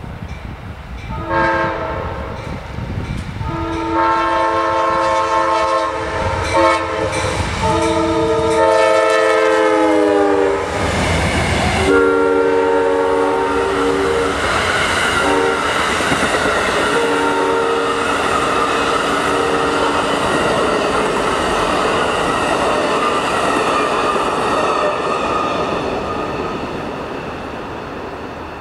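Amtrak passenger train passing at speed. The locomotive's air horn sounds a series of blasts for the grade crossing, and its chord drops in pitch about ten seconds in as the locomotive goes by. The coaches then roll past with wheels clicking over the rail joints and a steady rush that fades near the end.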